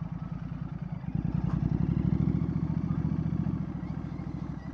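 Royal Enfield Bear 650's 650 cc parallel-twin engine running through a Red Rooster Performance aftermarket exhaust, a thick, even grumble. It gets louder about a second in and stays there.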